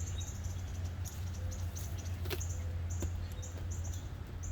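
Small birds chirping: quick, high-pitched chirps repeating several times a second over a steady low hum, with a couple of light clicks in the middle.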